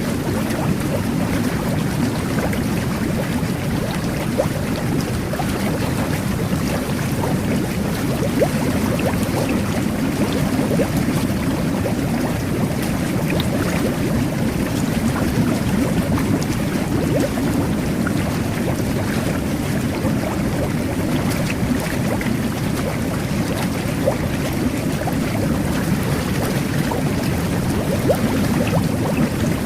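Jetted bubble bath running: water jets churning and bubbling in the tub as a steady, low, unbroken rush with faint pops.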